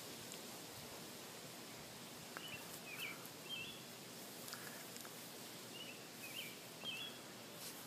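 Steady outdoor background hiss with a small bird's quick three-note chirping phrase, heard twice a few seconds apart, and a few faint clicks.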